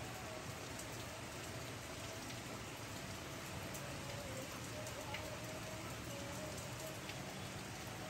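Steady rain falling onto wet concrete and a shallow puddle: an even hiss with scattered sharp ticks of single drops.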